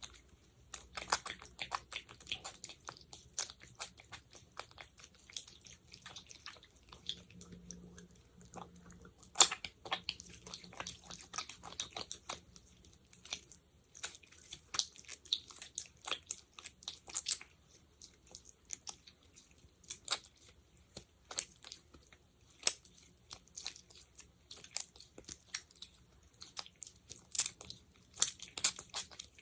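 Sticky gel worked between fingers close to the microphone: a run of irregular tacky clicks and crackles, with one louder snap about nine seconds in and several near the end.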